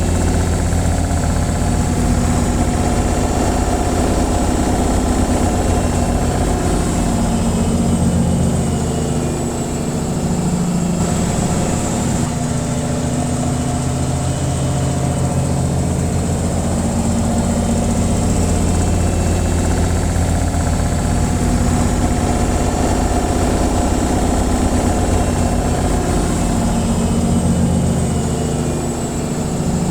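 Washing machine on its spin cycle: a steady motor hum and low drum rumble, easing briefly about ten seconds in before picking up again.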